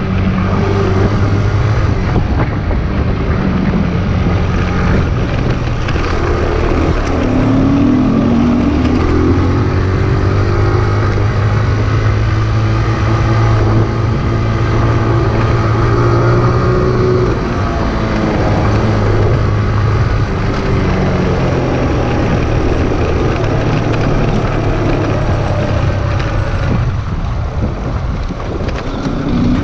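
Small single-cylinder motorcycle engine, a Kawasaki Z125, running in a low gear on a dirt trail. Its steady note rises and falls a few times with the throttle.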